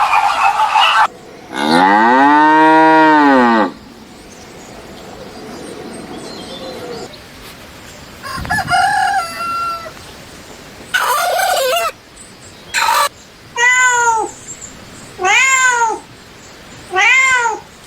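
A series of animal calls. About two seconds in comes one long, low call that rises and then falls. After some chirping in the middle, a cat meows four times, about two seconds apart.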